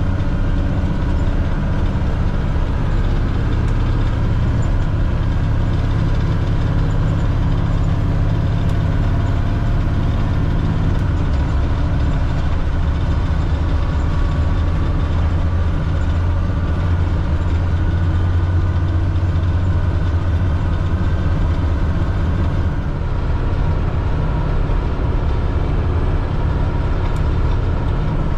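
Cat C7 inline-six diesel engine of a front-engine Blue Bird All American school bus running steadily, heard from the driver's seat.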